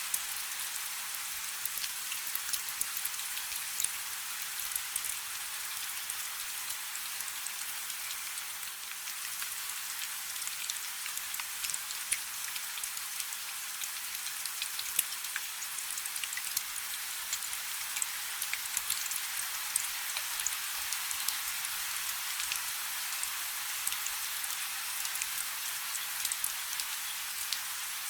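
Steady rain falling on a river: a dense, even hiss dotted with many individual drop ticks.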